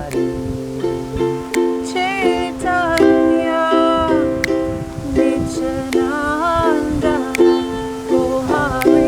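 Ukulele strummed in an even rhythm, about two strokes a second, with voices singing a slow, drawn-out kirtan mantra melody over it and a steady low note held beneath.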